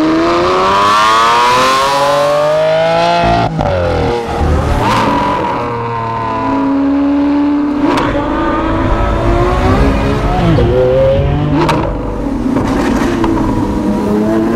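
Lamborghini Aventador's V12 engine accelerating hard: the revs rise steadily for about three and a half seconds, drop sharply at a gear change, then climb again in further pulls. Three sharp cracks come about five, eight and twelve seconds in.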